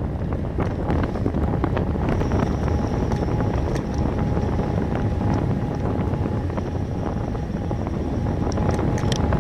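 Wind buffeting the microphone of a camera on a moving bicycle, a steady rumble with small clicks and rattles scattered through it.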